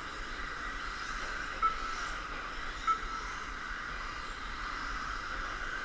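Electric RC stadium trucks racing around the track, their motors making a steady high whine, with two short beeps about a second and a half apart.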